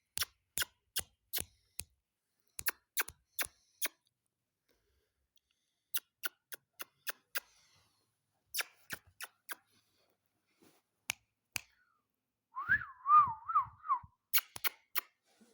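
Ringneck parrot making sharp, irregular clicks in quick clusters, like a beak biting or chewing. Near the end comes a short warbling whistle that wobbles up and down, louder than the clicks.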